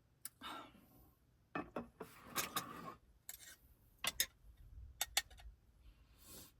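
Small clicks, clinks and light knocks of tableware and cookware being handled, with short spells of rustling or scraping between them.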